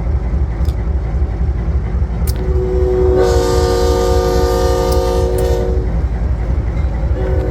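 GE U23B diesel-electric locomotive running steadily, its air horn sounding a long chord a couple of seconds in: one tone first, the others joining about a second later. A second horn blast starts near the end.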